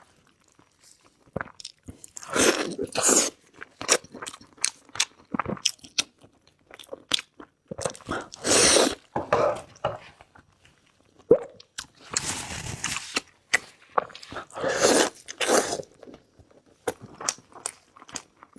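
A person biting and chewing meat, in irregular bursts with sharp clicks between them.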